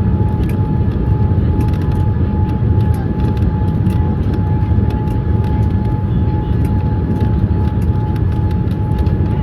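Airliner on approach in stormy weather: a steady, loud low rumble of engines and airflow with a steady high whine through it, and faint scattered ticks.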